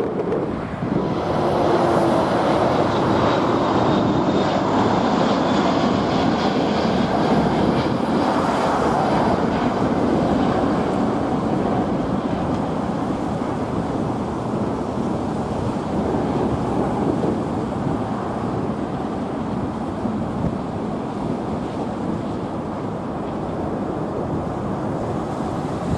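Jet airliner taking off, its engines at high thrust making a loud steady rush, with a faint high whine over the first several seconds that gives way to a broad rumble.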